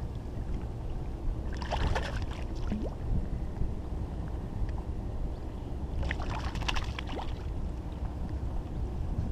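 Water splashing twice in brief bursts beside a kayak, over a steady low rumble of wind on the microphone.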